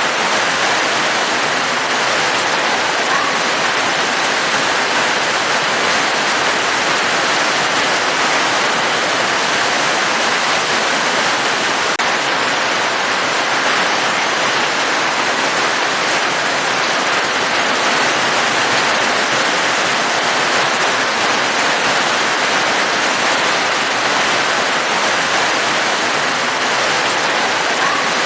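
Falling water, steady heavy rain or a waterfall, making an even, unbroken rushing hiss with no single drops standing out.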